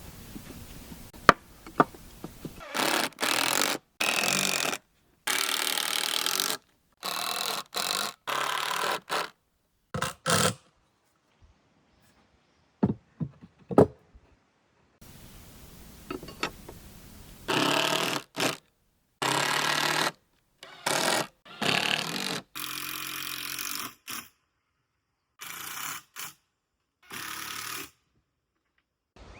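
Power tool running in a series of short bursts, about a dozen of them, each about a second long, with abrupt silent gaps between them.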